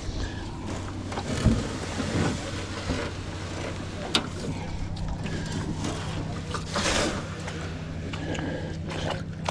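Small boat motor running steadily, with a few knocks and thumps and a sharp click about four seconds in.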